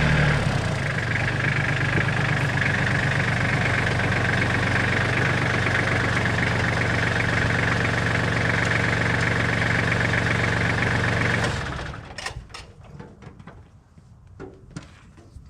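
An engine running steadily at idle, shut off about twelve seconds in, followed by a few light knocks.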